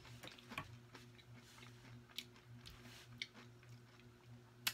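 Quiet close-miked chewing of a mouthful of food, with scattered faint wet mouth clicks and one sharper click near the end, over a faint steady hum.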